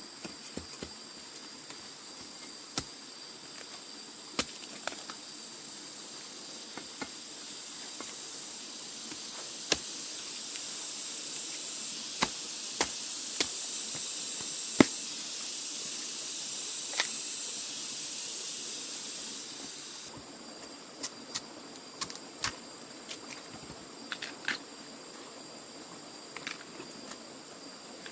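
Insects trilling on steady high notes, with a louder hissing insect drone that swells up midway and then cuts off suddenly. Sharp, irregular knocks or clicks sound throughout.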